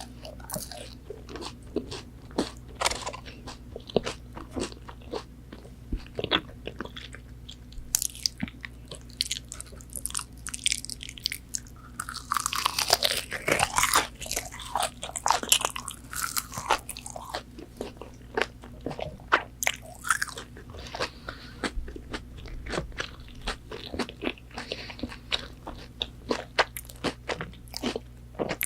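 Close-miked biting and chewing of crispy McDonald's chicken nuggets: a run of sharp crunches and wet chewing clicks, with a denser stretch of crunching about halfway through.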